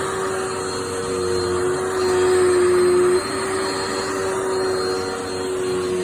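Dirt Devil Multi-Surface+ upright bagless vacuum cleaner running, a steady motor whine over the rush of air. It grows louder about two seconds in and drops back suddenly about a second later.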